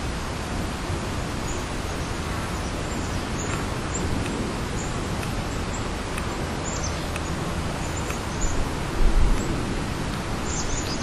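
Steady outdoor hiss with small birds giving short high chirps here and there, and a couple of low bumps a little past the middle.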